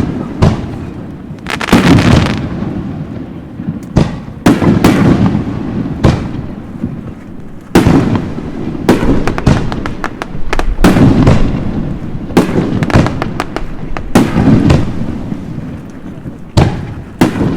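Aerial fireworks shells bursting in close succession: many sharp bangs, about one a second, each followed by a rumbling echo, with crackling in between.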